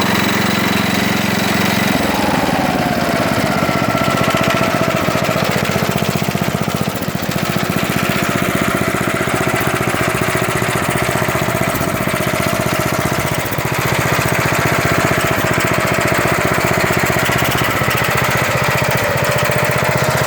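The 16 hp Briggs & Stratton engine of a 1970s Wards garden tractor running steadily. About two seconds in, its note changes and a whine comes in, sliding down in pitch and then holding steady.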